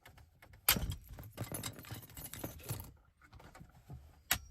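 Rattling, clicking plastic and metal handling of a car stereo unit as its wiring connectors are unplugged from the back: a loud click, about two seconds of scuffing clatter, then one sharp click near the end.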